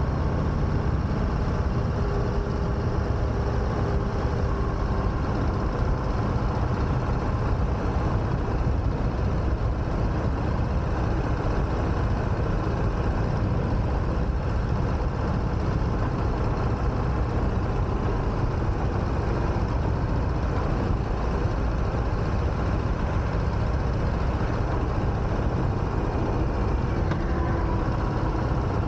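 2021 Harley-Davidson Sport Glide's Milwaukee-Eight 107 V-twin engine running steadily while the motorcycle is ridden, heavy at the low end under a constant rush of noise, with a slight change in pitch near the end.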